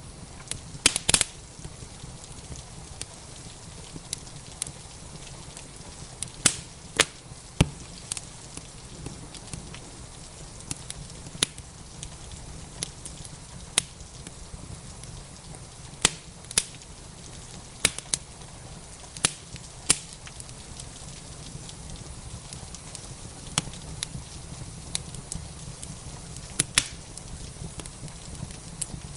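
Wood fire crackling, with sharp irregular pops every second or few, over a steady hiss of rain.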